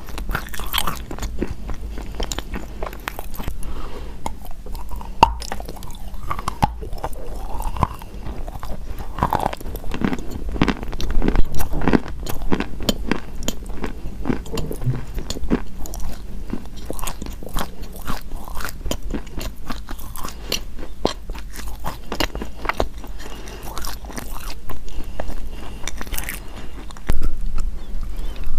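A person biting and chewing crunchy eating chalk, a dense run of crisp cracks and crunches with chewing between bites; one louder crack about eleven seconds in.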